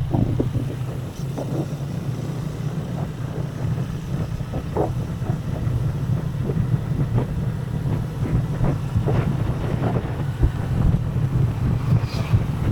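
Motorcycle engine running steadily while riding, with wind rushing over the microphone and occasional small knocks.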